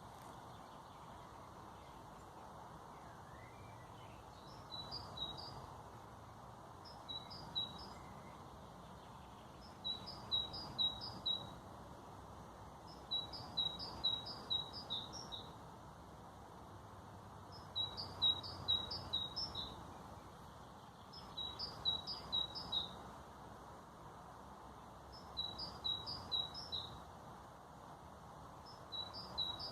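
A songbird singing short phrases of quick, high chirps, repeated about every three to four seconds, over a steady background rush.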